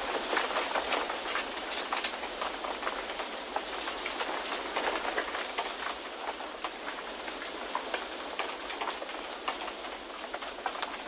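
Wind ambience: steady rushing noise with a dense, irregular patter of small crackles throughout.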